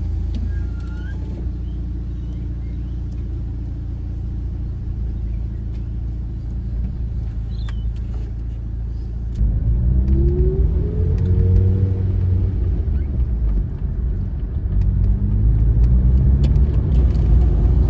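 Volkswagen Polo GTI engine idling, heard inside the cabin. About nine seconds in the car pulls away and the engine grows louder, its revs climbing, dropping at a gear change, then climbing again as it accelerates through the gears of the manual gearbox.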